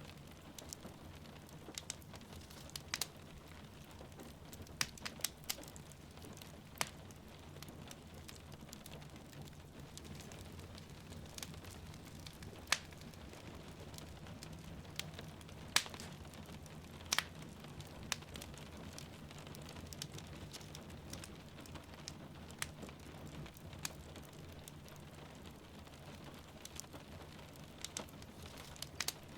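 Wood fire crackling, with sharp pops at irregular intervals over a steady soft rain hiss and low rumble.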